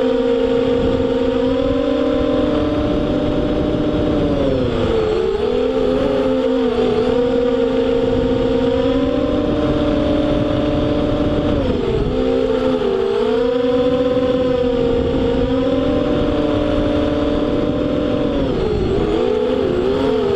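Racing quadcopter's brushless motors and propellers whining steadily under throttle. The pitch dips and climbs back about every seven seconds, three times, as the throttle changes for the turns of the oval.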